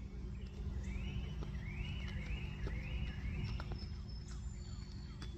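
A bird singing a short arched note over and over, about five times a little under a second apart, with a second, thinner high call near the end, over a steady low outdoor rumble.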